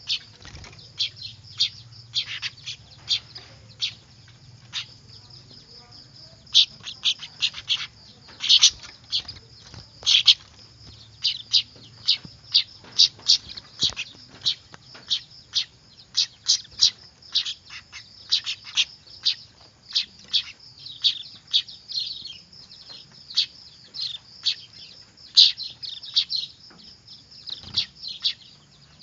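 Young weaver birds (manyar) chattering noisily: a stream of short, high chirps, scattered at first and then coming thick and fast from about six seconds in.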